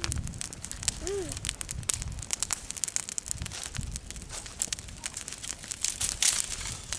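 Wood fire crackling, with many irregular sharp pops and snaps; a brief voice sound about a second in.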